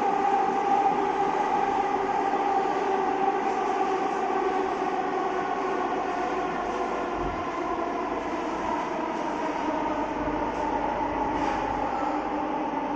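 Metro train running between stations: a steady electric whine of its traction motors over continuous rail rumble.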